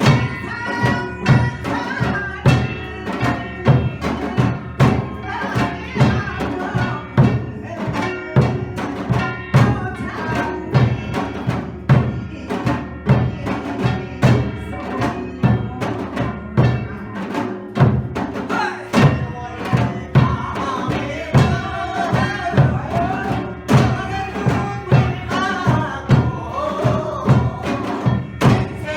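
Samulnori ensemble playing: Korean drums (janggu and buk) and gongs (kkwaenggwari and jing) keep a dense, regular beat, and a sung melody runs over the percussion.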